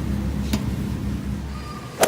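Low, steady rumble of a shopping cart rolling across a store floor, with a sharp click about half a second in. The rumble dies away near the end and is cut by a sharp knock.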